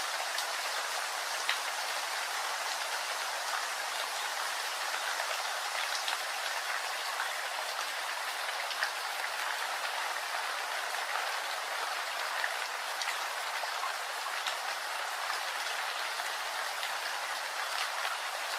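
Steady rain: an even hiss with scattered sharper ticks of individual drops.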